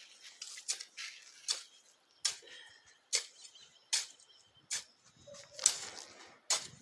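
Rhythmic crunching of dry leaves and soil, about one sharp stroke every second, as the ground is worked by hand.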